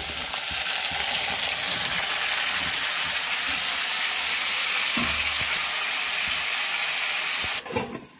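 Cauliflower florets and potato pieces sizzling loudly as they hit hot oil and masala in a kadhai, a steady hiss. Near the end the sizzle drops away suddenly as a lid is put on the kadhai, with a couple of knocks.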